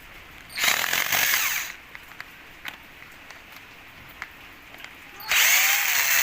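Electric drill backing out screws from a washing machine's body, in two short runs of about a second each with the motor's pitch sliding as it speeds up and slows.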